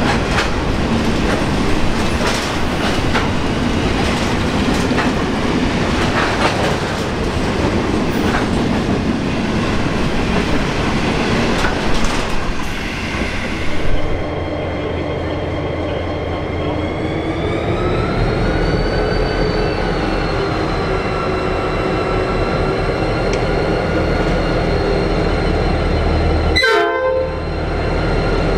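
A loaded grain train rolls past, its wagons rumbling and clicking over the rail joints. About halfway through, the sound changes to a Pacific National 81 class diesel-electric locomotive, with an EMD V16 two-stroke engine, running at the platform. Its engine note rises and then eases as it throttles up to pull a grain train away.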